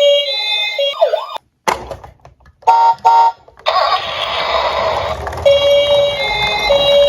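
An electronic siren sound effect of stepped, alternating tones that breaks off about a second in. Two short horn-like beeps follow, then about two seconds of noisy rushing sound, and the siren tones start up again near the end.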